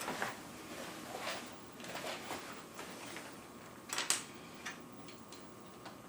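Faint clicks and scraping of small plastic parts as a keycap stabilizer clip is worked onto an Amiga keyboard key over its spring, with two sharper clicks about four seconds in.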